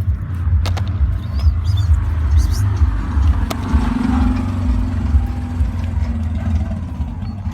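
Low, steady rumble of street traffic, with a vehicle engine passing about halfway through.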